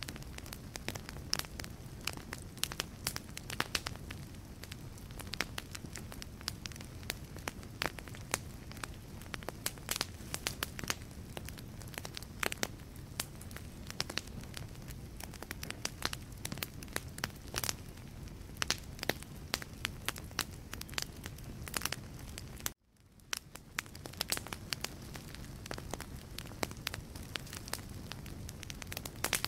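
Wood logs burning in a fireplace, with dense sharp crackles and pops over a steady low rumble of flame. About three-quarters of the way through, the sound cuts out for a moment, then fades back in.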